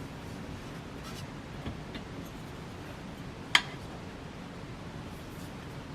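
Handling noises: a few faint taps and one sharp click about three and a half seconds in, over a steady low room hum.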